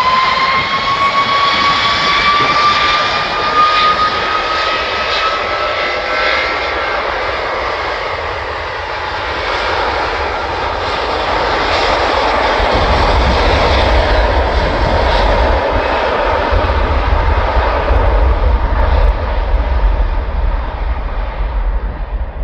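Airbus Beluga XL's twin Rolls-Royce Trent 700 turbofans at takeoff power: a steady jet roar with a fan whine rising in pitch over the first several seconds, then a deep rumble that builds in the second half and falls away near the end.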